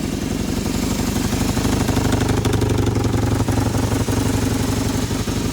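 1978 Kawasaki KZ750 parallel-twin engine idling with an even exhaust pulse through its deteriorated mufflers, briefly rising in speed about a second in before settling back.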